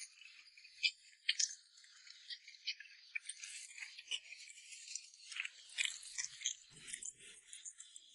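Close-miked eating sounds: wet chewing with small mouth clicks and smacks as rice noodles in chili oil are eaten, a few soft lower thumps near the end.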